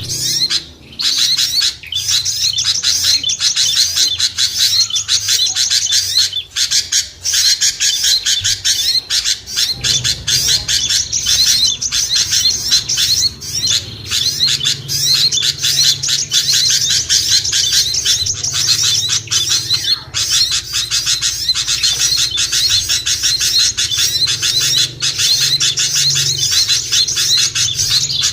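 A dense chorus of small songbirds chattering and chirping rapidly and without pause, the kind of busy small-bird lure recording that is played to draw small birds down to a trap.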